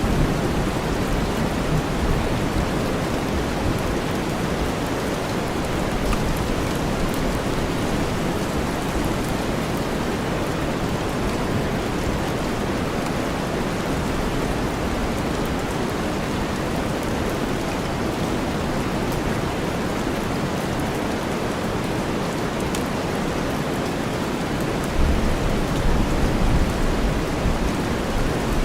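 Steady rain mixed with deep white noise, a continuous even hiss. A low rumble of thunder swells up about 25 seconds in.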